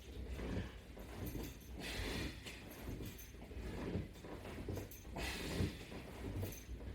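A man breathing hard in rhythm with strap-assisted sit-up crunches, a sharp breath every second or two, with faint thuds and rustling from the movement.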